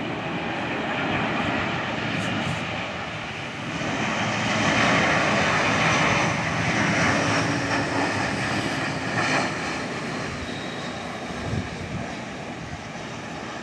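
Jet airliner passing overhead on its landing approach: the broad rushing noise of its engines swells to its loudest about four to seven seconds in, then slowly fades.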